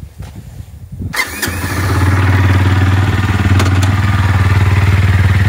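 SYM T2 motorcycle engine started about a second in, after a few soft knocks. It catches at once and settles into a steady idle.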